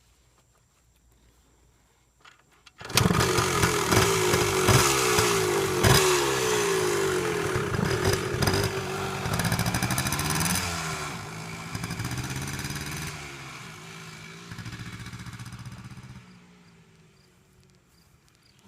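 The 1990 Yamaha RT 180's air-cooled two-stroke engine starts about three seconds in and revs up and down several times. It then fades gradually as the dirt bike rides away.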